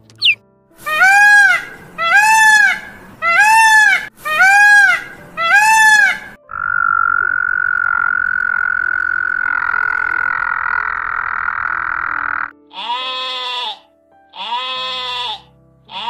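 Five loud animal calls about a second apart, each rising and falling in pitch, then a frog's long steady call lasting about six seconds, then a sheep bleating twice near the end.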